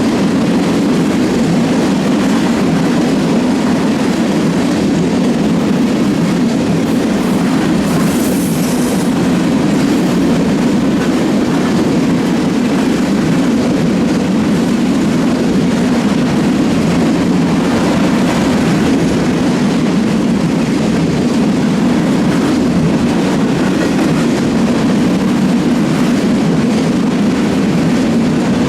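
Freight train cars rolling steadily past on the rails, a continuous rumble of wheels on track, with a brief high-pitched sound about eight seconds in.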